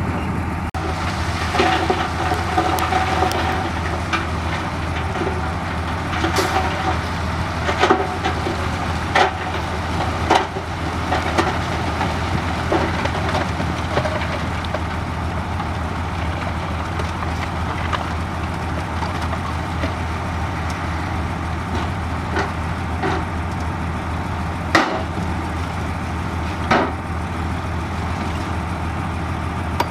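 Heavy diesel earthmoving machinery running steadily, with sharp knocks and clanks of rock every few seconds, most of them in the first ten seconds and a few more near the end.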